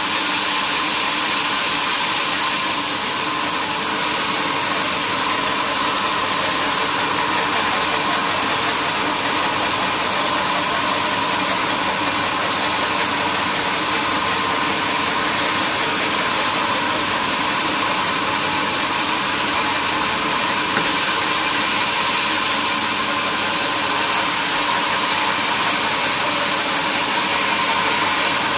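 Sawmill machinery running steadily, a constant whine over a loud, even hiss with no pauses.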